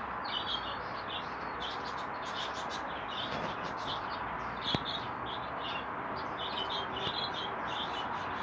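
Small birds chirping in quick repeated calls over a steady background hum, with one sharp click about five seconds in.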